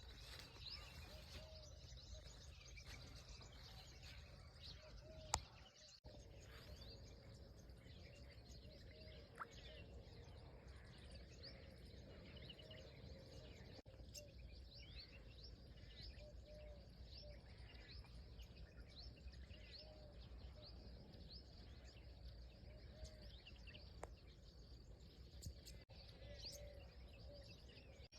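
Small birds chirping, many short high calls scattered throughout, faint over steady background hiss, with one sharp click about five seconds in.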